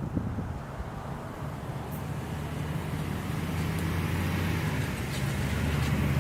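Motor vehicle engine running with road or tyre noise, a steady low engine tone that grows slowly louder.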